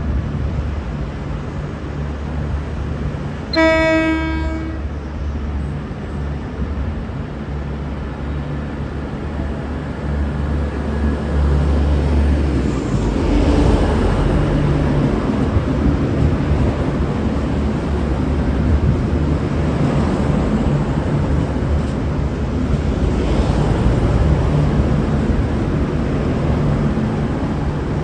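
V/Line VLocity diesel multiple unit's engines running steadily, with one short low-note horn blast about four seconds in. From about twelve seconds in, the engines grow louder as the train pulls away.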